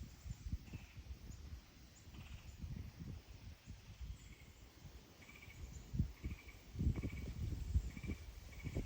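Strong wind buffeting the microphone in irregular low gusts, with faint short high chirps repeating throughout.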